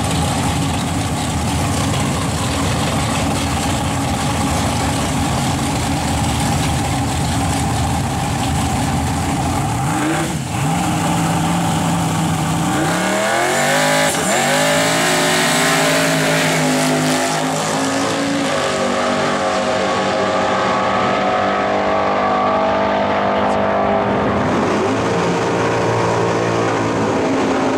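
Drag-race hot rods, a twin-turbo 1937 Chevy pickup against a Chevy Nova: engines idling and revving at the line, then from about twelve seconds in launching and accelerating hard down the strip, the engine pitch climbing and dropping back at each gear shift several times.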